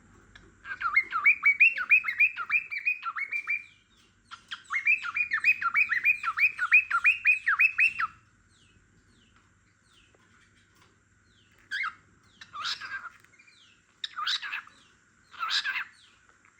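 Pet cockatiel singing: two long runs of quick, repeated chirping notes, about four or five a second, with a short break between them. After a pause, a few short separate calls.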